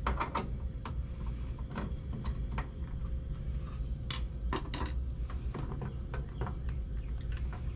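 Scattered clicks and light knocks as a washer's main control board is unscrewed and lifted out: two 1/4-inch hex-head screws backed out and the board handled free. A steady low hum runs underneath.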